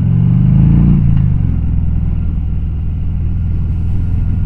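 Motorcycle engine accelerating, its pitch rising to a peak about a second in, then settling into a steady drone while cruising.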